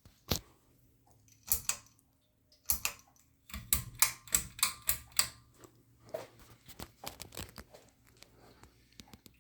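Irregular clicks and knocks in short clusters, densest about four to five seconds in and thinning to light ticks near the end, over a faint steady hum.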